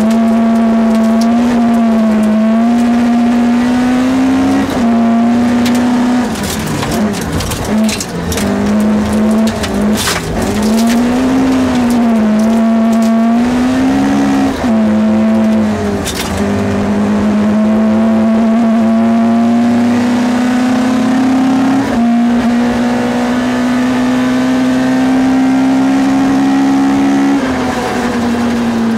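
Toyota Corolla 1600 GT rally car engine driven hard, heard from inside the cabin. It revs up repeatedly, dropping back in pitch at each gear change. Bursts of clattering and knocks come from the gravel road in the first half.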